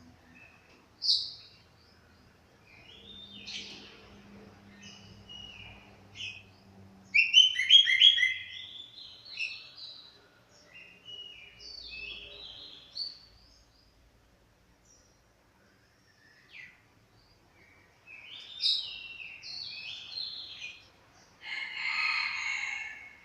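Chestnut-capped thrush singing, a bird just out of its moult: a varied song of short whistled and chattering phrases in bursts with short pauses, loudest about a quarter of the way in, with a harsher, rougher phrase near the end.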